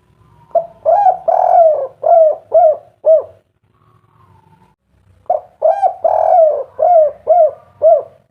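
Spotted dove (tekukur, derkuku) cooing its 'kuk 3' song twice. Each phrase is a couple of short notes, a long drawn coo, then three short clipped 'kuk' notes.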